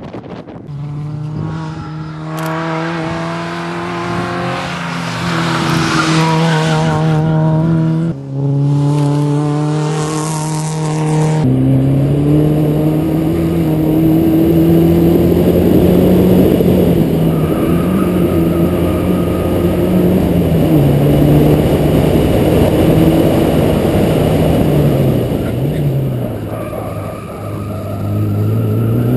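Rally car engines running hard, the engine pitch holding, rising and dropping with throttle and gear changes, with sudden changes of sound about 8 and 11 seconds in as one shot gives way to another.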